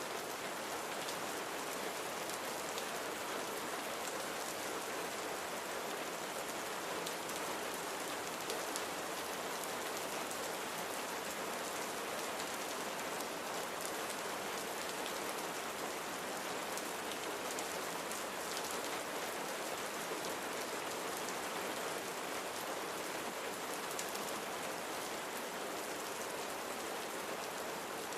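Steady rain falling, an even hiss with fine patter of individual drops on a surface.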